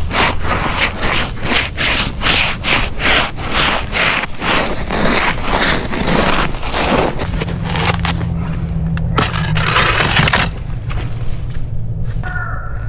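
Footsteps crunching on icy, sleet-covered ground, about two or three steps a second, giving way after about seven seconds to scattered scraping and rubbing sounds.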